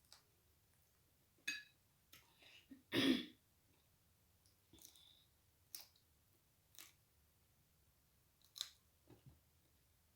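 Eating sounds while chewing chicken feet: scattered short mouth clicks and smacks, with one louder, longer chew or slurp about three seconds in.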